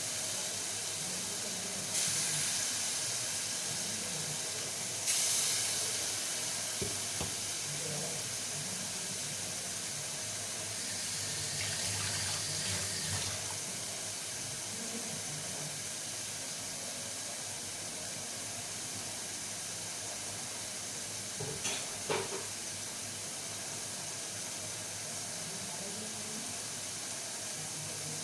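Marinated boneless chicken pieces sizzling in melted butter in a frying pan, a steady hiss that flares up sharply twice, about two and five seconds in. A few brief knocks about twelve and twenty-two seconds in.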